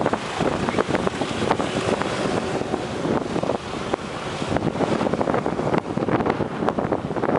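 Rushing roar of the Yoshino River in muddy flood from a dam release, mixed with gusts of wind buffeting the microphone.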